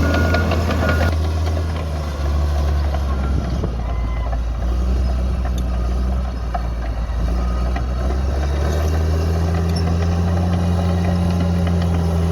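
Heavy earthmoving machine's diesel engine running under changing load, its note stepping up and down a few times. Backup-alarm beeps sound in the first second.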